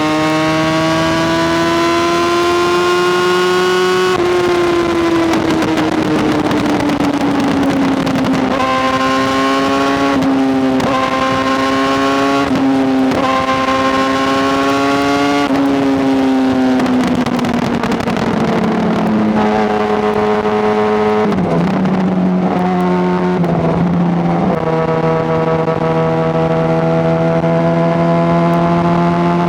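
Honda CBR600RR's inline-four engine running under way, heard close up from the bike. The engine note climbs slowly with several brief breaks in the middle, sinks as the bike slows, steps down lower through a few quick breaks, then holds a steady, slightly rising note near the end.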